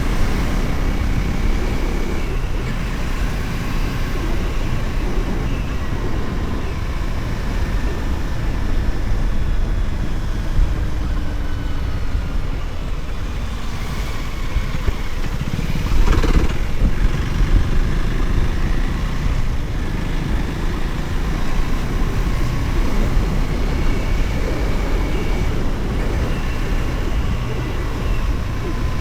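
Motorcycle riding along a road: engine running with its pitch slowly rising and falling, over a steady low rumble of wind on the microphone, with a louder burst about sixteen seconds in.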